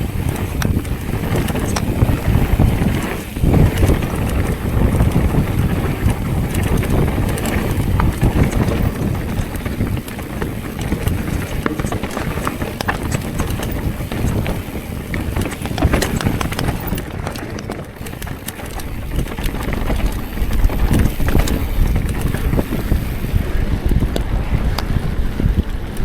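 Wind buffeting the microphone, a steady heavy low rumble during a ride, dipping briefly twice.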